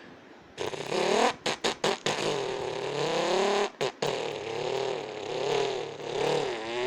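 Vocal imitation of a Lamborghini Huracán starting up: a few choppy sputters about a second in, then a continuous buzzing engine drone whose pitch wavers up and down, with a short break near four seconds.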